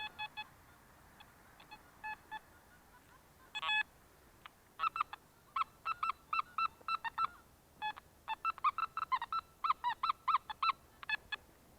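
Metal detector beeping in short tones as the search coil sweeps the ground. A few scattered beeps come first, then from about four seconds in a quick run of two or three beeps a second, some bending in pitch.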